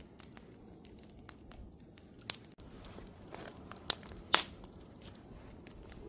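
Wood fire burning: a steady low rustle of flames with scattered small crackles and a few sharp pops, the loudest about four seconds in.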